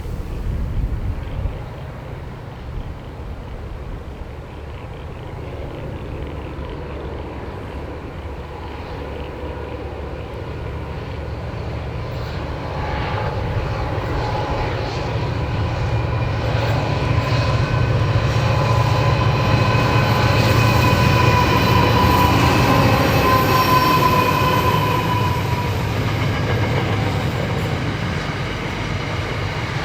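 Diesel-hauled train approaching and passing. A low engine drone grows louder from about twelve seconds in, with a set of steady high tones over it, and peaks about two-thirds of the way through before easing off near the end.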